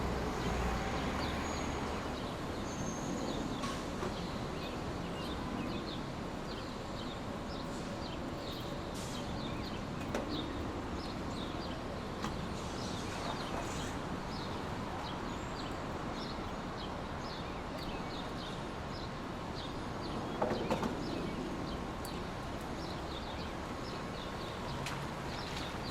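Steady rushing noise track (brown/white noise) with many short, high chirps scattered through it, and a brief cluster of knocks about twenty seconds in.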